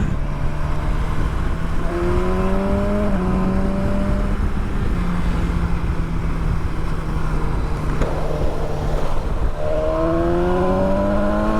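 Motorcycle engine under way: it pulls up in pitch, shifts up about three seconds in, runs steady, then pulls up in pitch again near the end, over a steady rush of wind noise.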